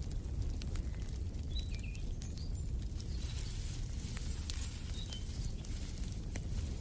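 Wood fire crackling in a fireplace, with a steady low rumble of the flames and scattered sharp pops. A bird gives a few short high chirps in the first half and again about five seconds in.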